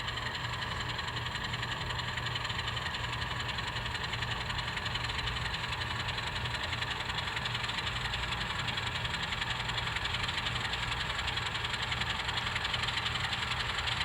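N scale model train running on the layout track: a steady motor hum with fast, fine clicking from the wheels and mechanism, growing slightly louder toward the end.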